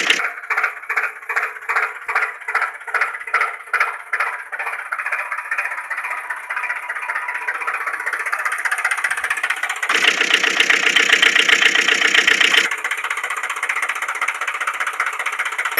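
Engine sound with almost no low end, chugging in pulses about two to three times a second for the first few seconds, then running steady. It changes abruptly twice, about ten and thirteen seconds in.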